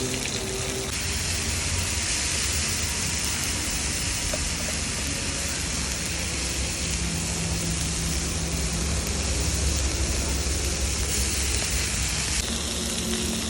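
Hot oil sizzling steadily as fish fries, over a steady low rumble.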